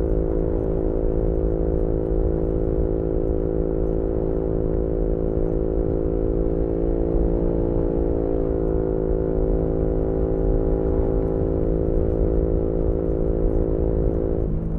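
Onboard sound of a 2018 Yamaha MT-125's single-cylinder engine through a GPR aftermarket exhaust, running at a steady note with wind rumble on the microphone. Near the end the engine note drops suddenly.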